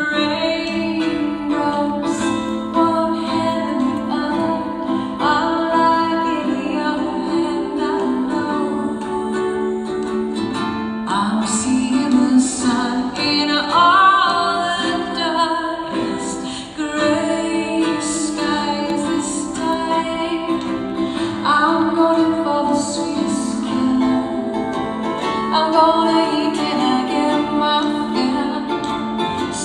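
A woman singing a song live, accompanied by guitar.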